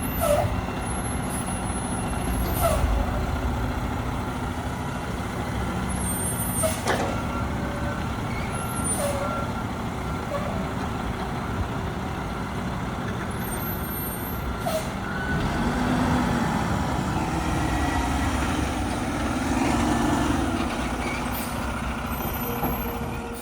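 Front-loader garbage truck's engine running steadily, with several short air-brake hisses. The engine rises twice in the latter part, as when the truck revs to work its lift hydraulics.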